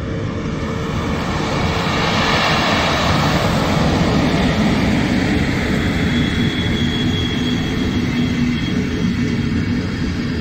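Passenger train of n-Wagen coaches hauled by an electric locomotive rolling past close by. The rumble of wheels on the rails grows louder over the first two seconds and then stays steady, with a faint whine over it.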